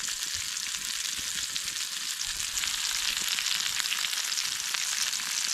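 Bacon sizzling and crackling as it fries in a pan, with a steady hiss.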